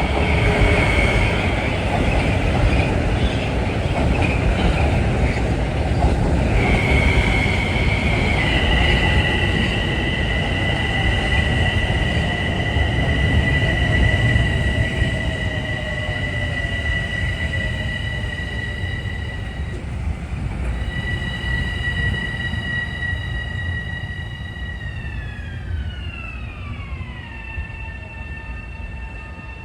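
A Metro-North commuter train at the platform: the rumble of the cars with high-pitched squealing tones that hold steady, then slide down together in pitch over about two seconds near the end as the train slows.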